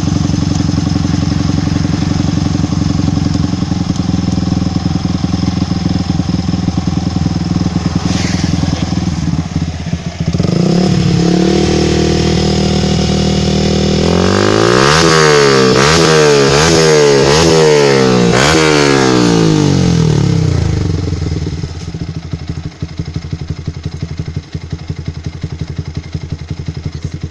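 Yamaha Vixion Lightning's 150 cc single-cylinder engine through an aftermarket B-Pro exhaust, idling steadily, then held at a higher speed about ten seconds in. It is then revved sharply about six times in quick succession before dropping back to idle.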